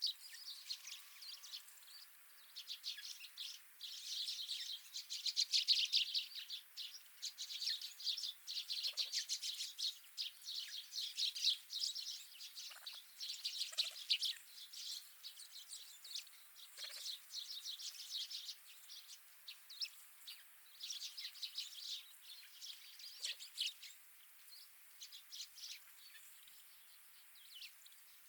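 A flock of small wild birds chirping and twittering together in a dense, overlapping chatter of short high calls, busiest in the first half and thinning out near the end.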